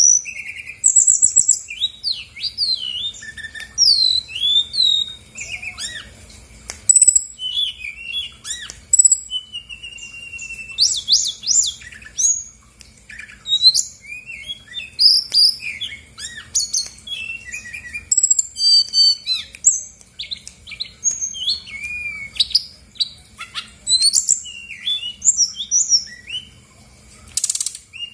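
Brown-chested jungle flycatcher singing a fast, varied song: quick whistled slides, chirps and short trills, one phrase after another with hardly a pause. A faint steady hum runs underneath.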